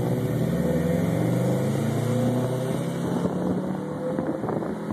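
Car engine accelerating, heard from inside the cabin: its pitch climbs steadily for about three seconds, over road and wind noise.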